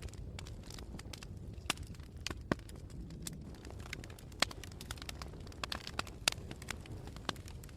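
Campfire burning: a steady low rumble of flames with irregular sharp crackles and a few louder pops as the wood burns.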